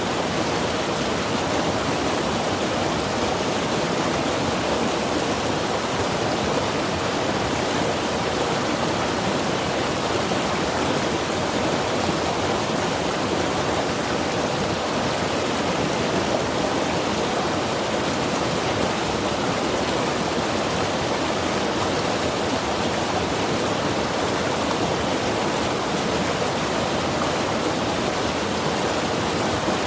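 Mountain river rushing over rocks: a steady, unbroken water noise with no distinct splashes.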